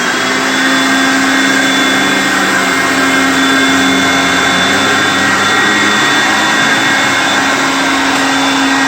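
Hoover Concept One vacuum cleaner running steadily at full power: a loud rush of air with a constant motor whine and a few high steady tones.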